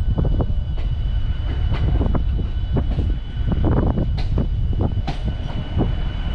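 Electric multiple unit (EMU) local train rolling along a station platform as it arrives, heard from its open doorway: a heavy rumble of wheels on rail with irregular clacks and knocks, over a thin steady high whine.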